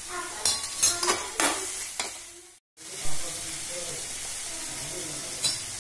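Onion-tomato masala sizzling in an aluminium kadai as a steel slotted spoon stirs and scrapes against the pan. The sound cuts out briefly about two and a half seconds in, then the frying goes on steadily.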